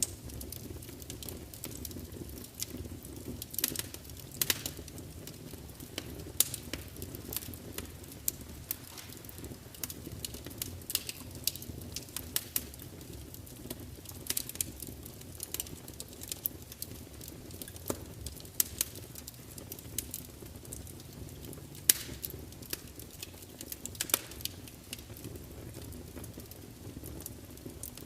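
Wood fire burning in a large open fireplace: a steady low rumble of the flames with frequent irregular crackles and sharp pops as the logs spit.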